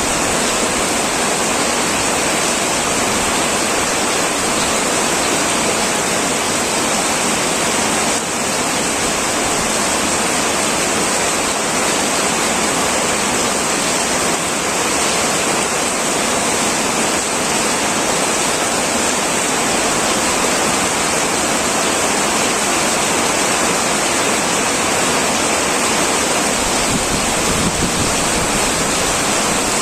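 Heavy rain falling on a tin roof: a dense, steady hiss of countless drops with no let-up.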